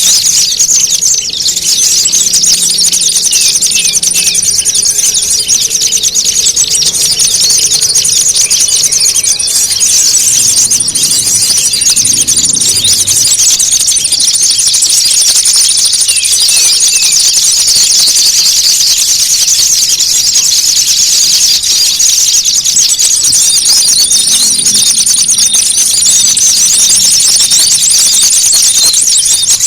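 Bird-lure recording: a dense, loud, unbroken chatter of many small birds calling at once. Above it runs a thin, steady, very high tone that breaks off a few times and returns.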